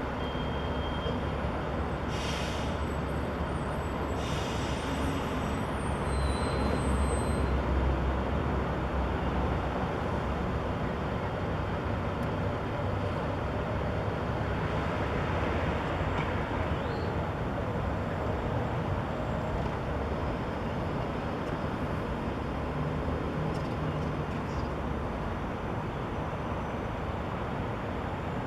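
Steady city traffic rumble, swelling as a heavier vehicle passes a few seconds in, with two short hisses near the start like a bus or truck air brake.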